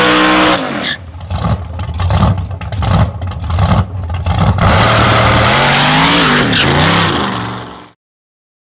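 Supercharged big-block engine in a drag-race Chevy Nova, held at high revs at the end of a burnout, then dropping off. It blips the throttle in a string of short revs, settles into a lumpy lower running, revs briefly near the end and fades out.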